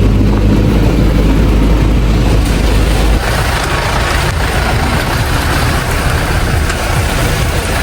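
Motor vehicle running, heard from on board: a steady low engine rumble. About three seconds in, the rumble drops and a rougher hiss of road noise takes over.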